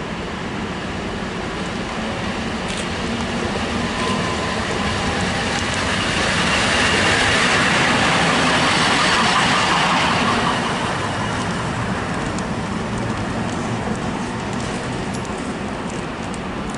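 EP07 electric locomotive rolling past on a shunting move, its running noise swelling to a peak about halfway through and then fading.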